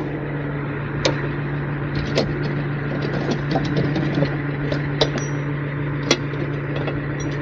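Tow truck's engine running with a steady low hum, with scattered sharp clicks and rattles over it.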